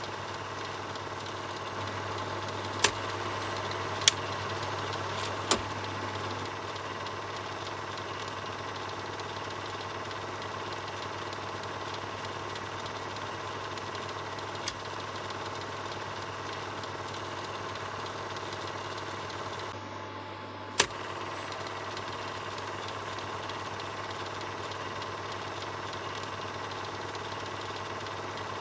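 Film projector running steadily, a continuous mechanical whirr and clatter over a low hum. A few sharp clicks stand out: three between about three and six seconds in, and one more about two-thirds of the way through.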